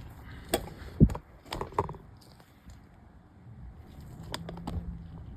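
Small sharp plastic clicks and taps as the tiny clip pieces of a MacBook key's retainer are handled and pushed into the keyboard. There is a cluster of clicks in the first two seconds, the loudest about a second in, and a couple more near the end.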